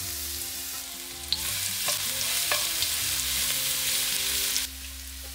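Crushed garlic sizzling in hot coconut oil with mustard seeds in a wok, stirred with a wooden spatula, with a few light clicks in the middle. The sizzle quietens near the end.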